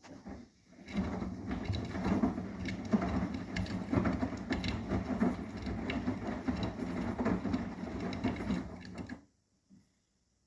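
Arçelik 9120M washing machine drum turning with a load of laundry on a delicate 40 °C wash, an uneven churning with many small knocks. It starts about a second in and stops suddenly as the drum motor pauses between turns.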